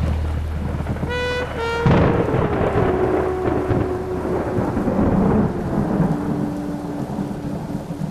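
Thunder rumbling over heavy rain. About a second in come two short pitched tones, then a held low tone that steps down in pitch.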